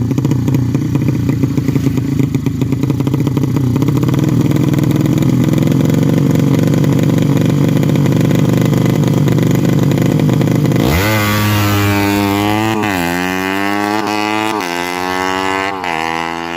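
A 200cc Yamaha Jupiter-based drag bike engine on a PWK Sudco 33 carburettor runs with a steady, rough, clattery note. About eleven seconds in it revs up hard, and the pitch climbs in three or four steps, dropping back between each, like shifting up through the gears under full throttle.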